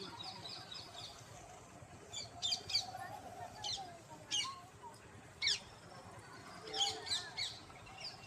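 Birds chirping: short, high, quickly falling chirps, several in quick clusters with gaps between them.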